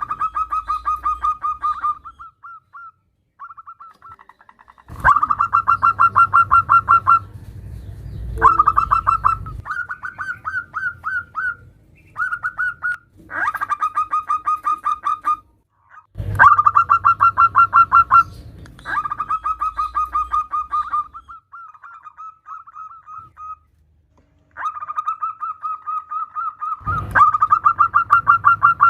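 Female zebra dove (perkutut) calling: runs of rapid, evenly spaced staccato cooing notes, each run lasting about two seconds, repeated with short pauses. It is a female's call that draws male zebra doves to answer and sing.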